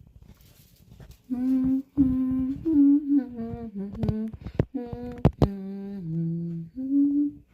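A woman humming a slow tune with held notes, from about a second in until near the end.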